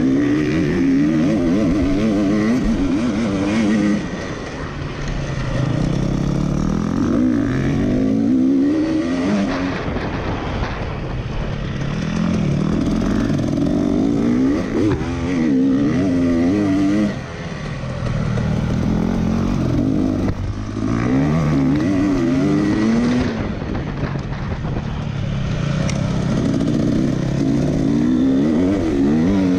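Racing tractor engine running hard, its pitch rising and falling over and over as it speeds up and slows, with a few brief dips in level.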